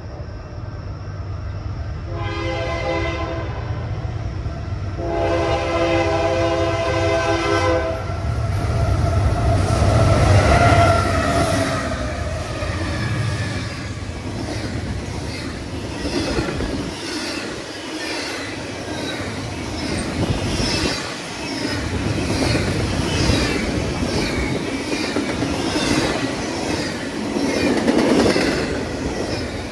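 Freight train's horn sounds two blasts, the second one long, as the train approaches. The locomotive then passes close by about ten seconds in, and double-stack container cars roll past with their wheels clicking steadily over the rail joints.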